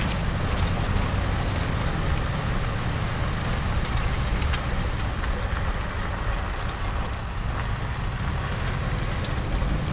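Steady low rumble of a Jeep Wagoneer being driven, heard from inside, with scattered light rattles and clicks.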